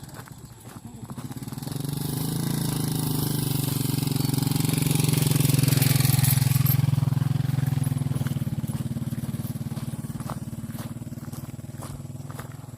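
Motorcycle engine passing by: it builds up over a few seconds, is loudest about halfway through, then fades away.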